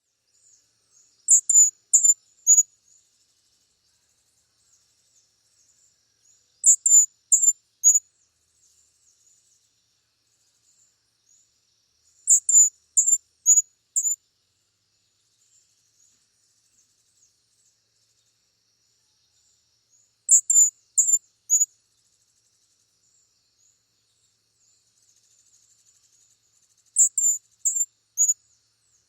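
A small songbird singing short phrases of four or five very high, thin notes, each phrase about a second and a half long, repeated five times every six to seven seconds.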